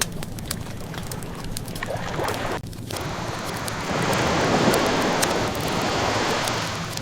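Ocean waves washing in steadily, with a swell building about four seconds in, under the scattered small pops and crackles of a wood fire. The sound drops out for an instant about two and a half seconds in.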